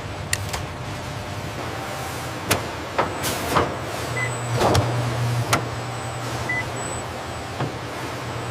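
Factory-floor machinery ambience: a steady low machine hum with scattered sharp clicks and knocks, busiest in the middle, and two short high beeps.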